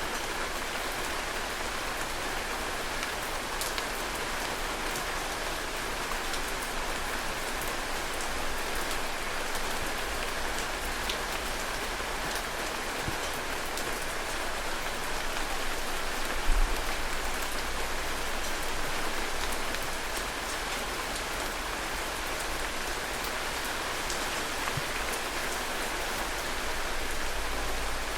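Heavy rain falling steadily: a dense, even hiss with scattered individual drops ticking. A short low thump comes a little past halfway through.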